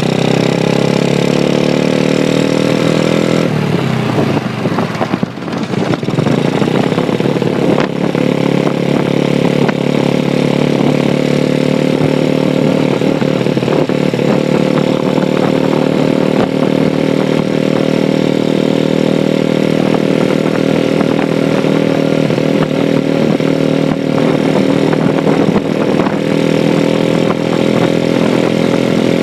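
Honda Chaly minibike's Wave 100 four-stroke engine running under way. Its revs climb for the first few seconds, drop sharply about four seconds in, then build back up and hold a steady, slowly rising note.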